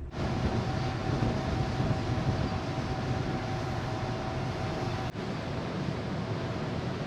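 Large car ferry under way: a steady rush of wind and sea with the ship's low rumble and a faint steady hum, with a brief dip about five seconds in.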